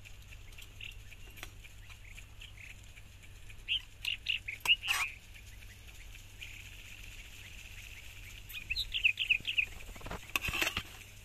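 Small birds chirping in short quick bursts, with a few sharp clinks of a serving spoon on metal and enamel dishes.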